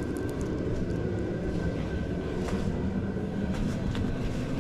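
Steady low rumble of a space heater running, with a faint steady whine over it and a few light clicks.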